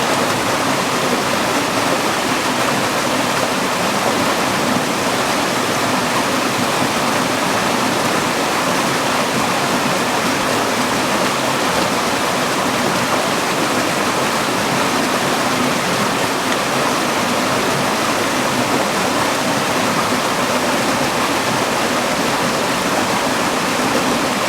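Waterfall pouring steadily, a constant rush of falling water with no breaks.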